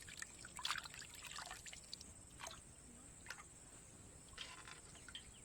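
Faint trickling and dripping of water with small splashes as pieces of fish are rinsed by hand.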